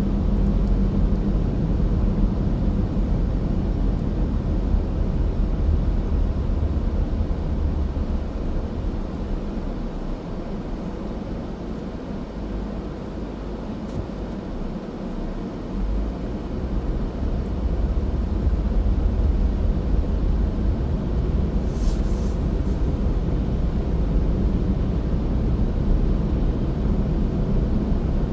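Car driving: a steady low rumble of road and engine noise, which eases off for a few seconds in the middle, with a brief high-pitched hiss about 22 seconds in.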